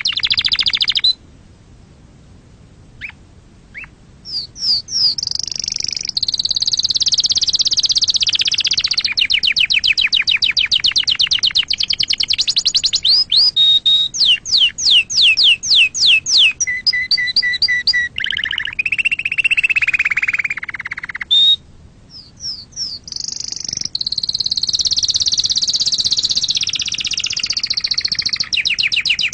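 Domestic canary singing: a long, varied song of fast trills, rapid repeated notes, sweeping notes and short held whistles, broken by brief pauses about a second in and again past the two-thirds mark.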